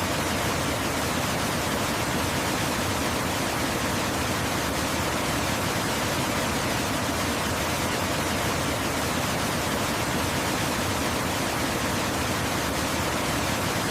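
Waterfall: a steady, unbroken rush of falling water, an even hiss across low and high pitches that does not change.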